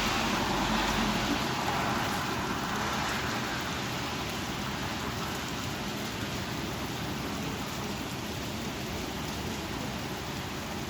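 Thunderstorm downpour: steady heavy rain driven by strong wind, a dense hiss that eases slightly over the first few seconds.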